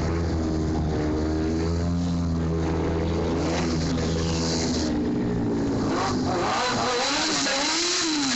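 Sport motorcycle engine in a stunt run, held at steady high revs for about five seconds, then revved up and down several times.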